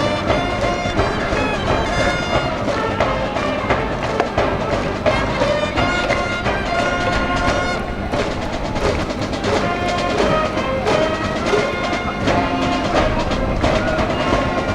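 School cheering brass band playing a rhythmic cheer tune in the stands: sustained brass melody phrases over a steady drum beat.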